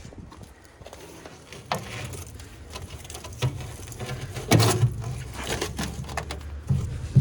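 Irregular knocks and clunks, about five or six and growing louder toward the end, over a low rumble: heavy forklift battery cells being handled and shifted.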